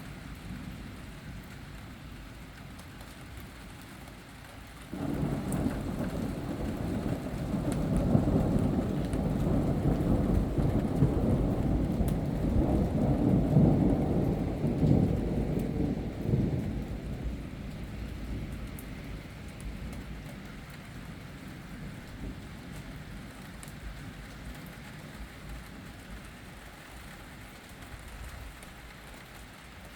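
Rolling thunder over steady rain. The rumble starts suddenly about five seconds in, swells to its loudest over the next ten seconds, then slowly dies away.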